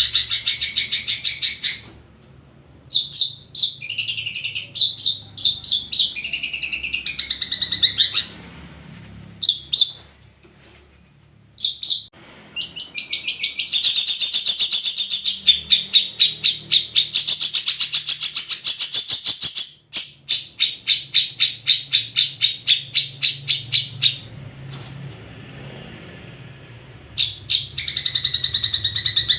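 Long-tailed shrike (cendet) singing: a loud, varied song of fast runs of sharp repeated notes and trills, broken by a few short pauses.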